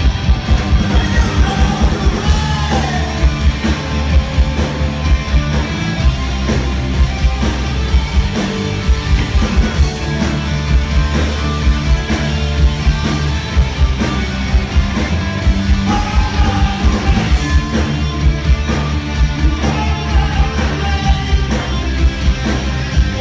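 A rock band playing live: a steady, driving drum beat with bass and electric guitar, and a lead vocal singing lines now and then over it.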